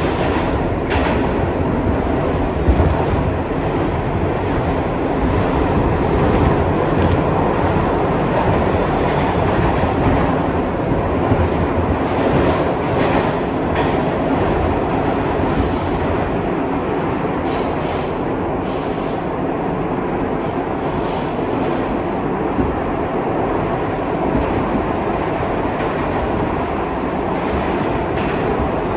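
Kawasaki R62 subway car running along the track with a steady rumble and rattle. From about halfway through, high-pitched wheel squeals come and go for several seconds.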